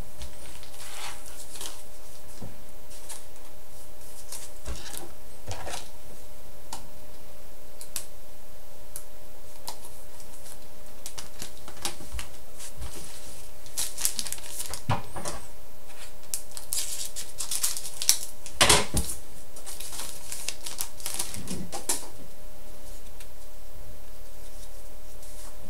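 Trading cards and a foil pack being handled: scattered light clicks, taps and rustles, busiest in the second half, over a faint steady hum.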